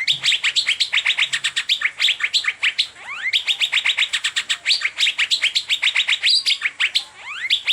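Asian fairy-bluebird (cucak biru) singing a fast, unbroken run of sharp chirps, about eight a second, broken now and then by a rising whistled note.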